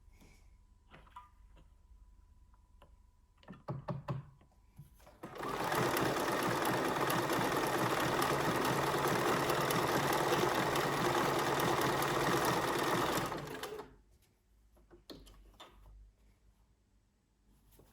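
Bernina 1230 sewing machine running steadily at speed for about eight seconds, starting about five seconds in and then stopping. A few light clicks and knocks come before and after the run.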